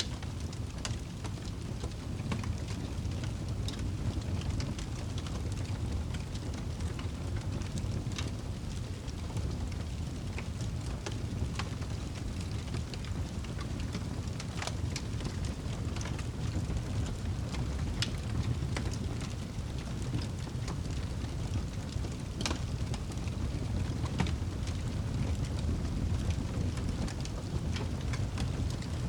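Wood fire burning in a fireplace: a steady low rumble of flames with scattered, irregular crackles and pops from the burning logs.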